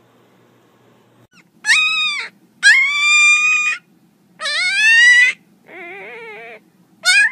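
Young black-and-tan puppy crying: five high-pitched, drawn-out whines in a row, the fourth lower, softer and wavering.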